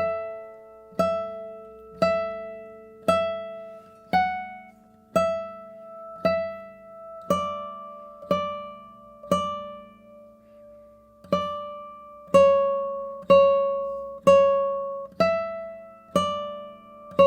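Guitar playing a slow single-note melody, one plucked note about every second, each with a lower note sounding under it, with a short pause about ten seconds in.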